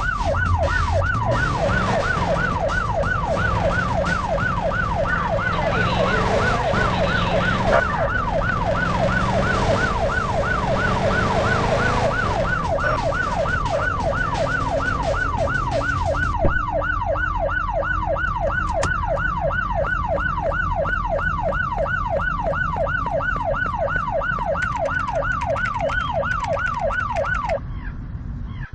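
Electronic siren on a fast yelp, sweeping up and down about three times a second without pause, over a low rumbling background. It cuts out for a moment near the end, then resumes.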